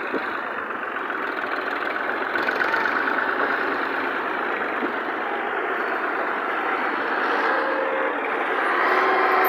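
Tractor diesel engine running steadily, slowly growing louder.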